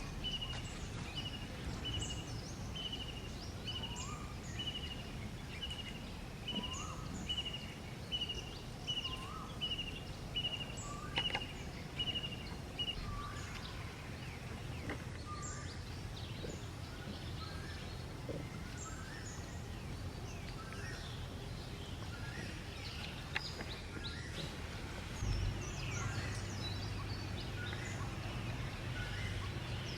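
Forest ambience with birds calling: one bird repeats a short high note about every two-thirds of a second until about halfway, while other birds chirp throughout over a steady low rumble.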